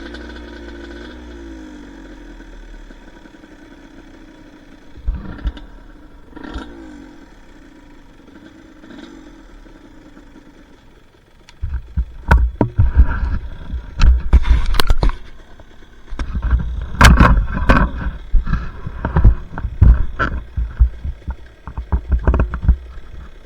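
Two-stroke dirt bike engine running at low, wandering revs. About halfway through, loud irregular knocks and rumbling take over and keep going.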